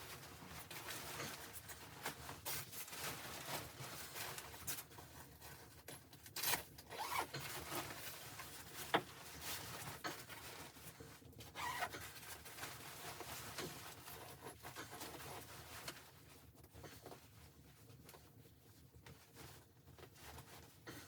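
Irregular rustling and scraping with a few sharp clicks, as objects or fabric are handled close by; it thins out over the last few seconds.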